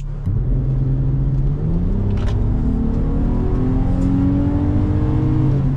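Infiniti G35's 3.5-litre V6 and exhaust under acceleration while driving. The engine note climbs steadily through a gear, then drops near the end as it shifts up.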